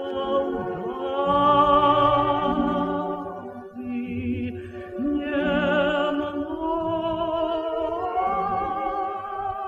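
Music: voices singing long held notes with vibrato over a low accompaniment, with a short break about four seconds in before the next phrase.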